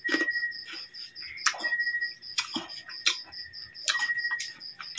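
Close-up wet chewing with irregular lip-smacks and mouth clicks as a person eats raw kalamyas (bilimbi) fruit and chili. A steady, fast, high-pitched ticking runs behind it.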